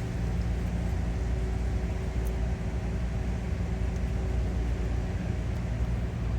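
Steady low mechanical drone of a city street at night, with a constant low hum and faint hiss and no distinct events.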